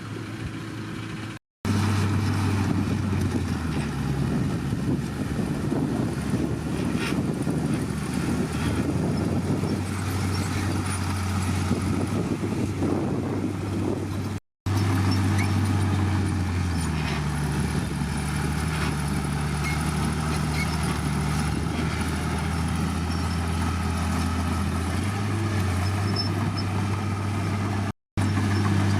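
Diesel engine of heavy earthmoving machinery running steadily, its pitch dropping and recovering a few times as it works under load. The sound cuts out completely for an instant three times.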